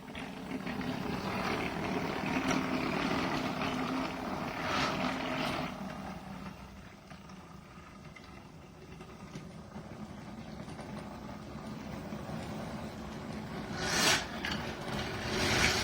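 Battery-powered toy train running along its track, a steady motor whir with rattling wheels, louder for the first few seconds and then easing off, with two short louder noises near the end.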